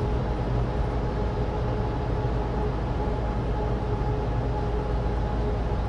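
Cabin sound of a Suzuki Alto Turbo RS kei car cruising at a steady speed: a low drone from its 660 cc turbocharged three-cylinder and road noise from studless winter tyres on dry asphalt, with a faint steady hum running through it.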